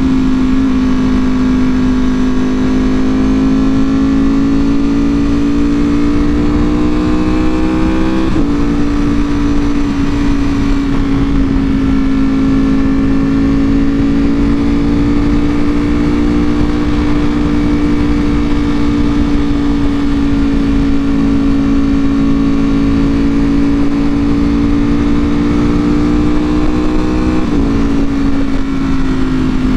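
Ducati Panigale V4R's V4 engine through an Akrapovic full exhaust, running at steady road speed under the rider. The revs climb slowly, change abruptly about eight seconds in as a gear is shifted, hold steady, and change again near the end, with wind noise underneath.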